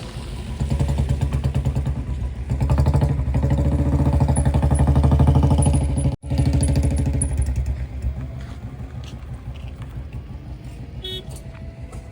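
Heavy diesel engine revving up hard in two steps and holding high revs for several seconds, with a brief dropout near the middle, then easing back toward idle.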